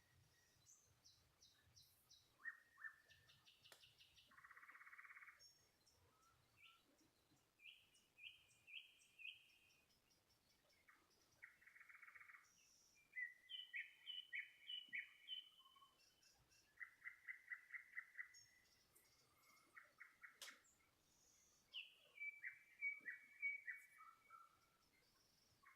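A songbird singing faintly: a long string of varied phrases, each a quick run of the same note repeated several times, some clear and whistled, some harsh and buzzy, with short pauses between phrases.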